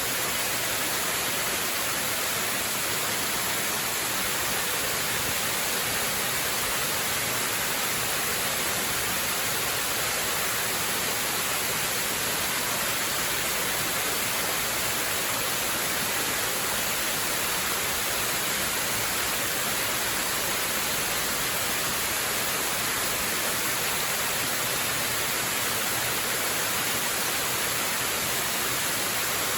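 Waterfall: falling water making a steady, unbroken hissing rush.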